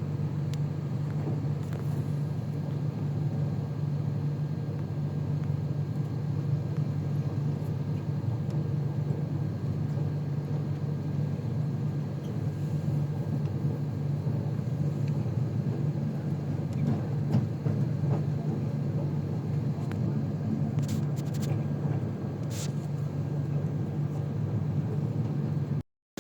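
Steady, even rumble and hum of a moving passenger train, with a few faint clicks about three-quarters of the way through.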